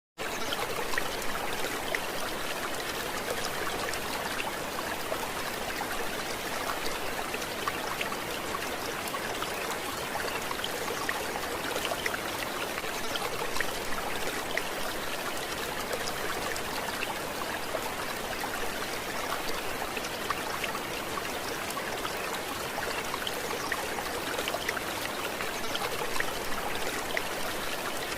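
Flowing water running and trickling steadily, with a constant stream of small splashes.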